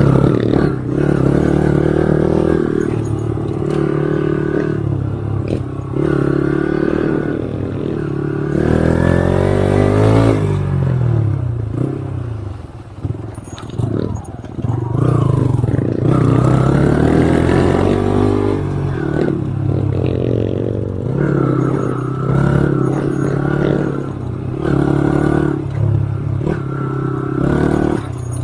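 Off-road motorcycle engine running under load, its pitch rising and falling over and over as the throttle opens and closes.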